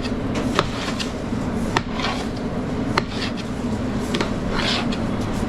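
Metal utensils clinking and scraping against pans in a commercial kitchen, with several sharp clinks, over a steady low kitchen hum.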